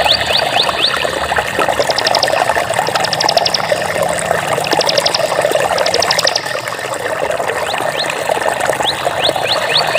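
Running water babbling and splashing steadily, with high chirping calls over it: quick rising chirps at the start and near the end, and four short rapid trills in between.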